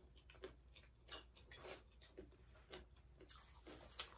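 Faint chewing of crunchy chatpate (spiced puffed rice), heard as soft, irregular little crunches and clicks about every half second.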